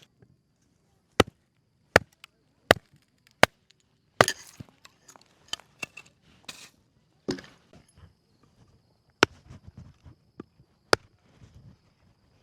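Wood being chopped: sharp single strikes, five in quick succession about three-quarters of a second apart, then three more spaced further apart, with softer rustling between.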